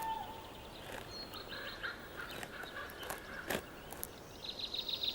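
Wild forest birds calling: scattered short chirps and whistles, then a rapid high trill starting near the end, with a few sharp clicks in between.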